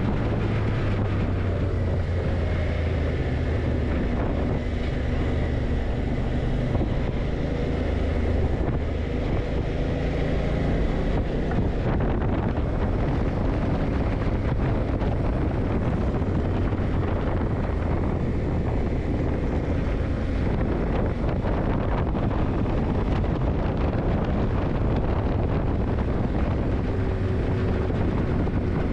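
Yamaha TDM900's parallel-twin engine running while the motorcycle is ridden, under heavy wind noise on the microphone. The engine note rises and falls a few times in the first dozen seconds, then holds steadier.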